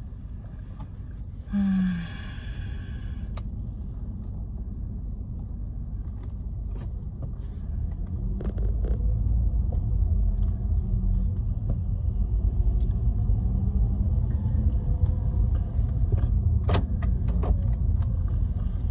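Car interior while driving: a steady low road and engine rumble that grows louder about eight seconds in as the car picks up speed. A brief tonal sound about a second and a half in, and a few light clicks.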